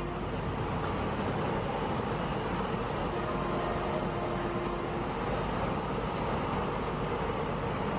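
A double-stack container freight train running past on the tracks, giving a steady, even running noise. A Vande Bharat express passes on the neighbouring line.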